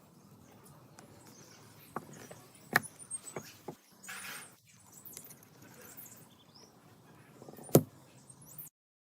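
A few sharp clicks and knocks of hard objects being handled, with a short scraping sound around the middle and the loudest knock near the end; the sound then cuts off abruptly.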